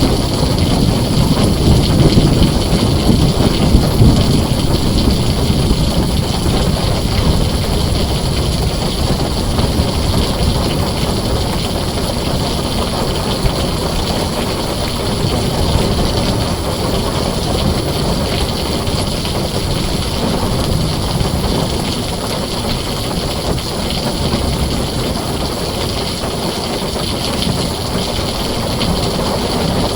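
Heavy rain drumming steadily on a tin roof, with a low rolling rumble of thunder in the first few seconds that dies away.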